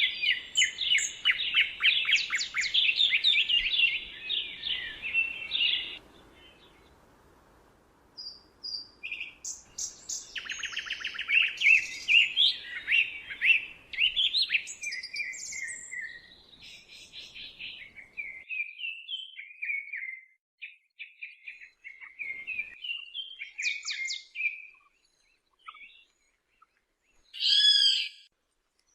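Several songbirds singing in woodland: fast trills and warbled phrases, a brief lull, then scattered chirps, with one loud short call near the end.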